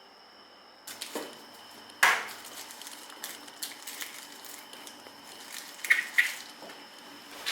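Insects chirring steadily, then from about a second in a few scattered knocks and clatters, the loudest about two seconds in and two quick clicks near six seconds.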